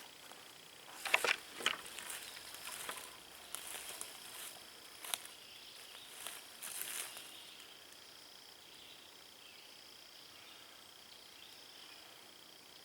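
Steady insect chorus of crickets or katydids, a high droning hum. In the first several seconds there are a few short crackling rustles, loudest about a second in.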